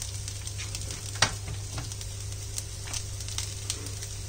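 Masala sizzling and crackling in a hot nonstick wok as rice is tipped in on top of it, with one sharp knock about a second in.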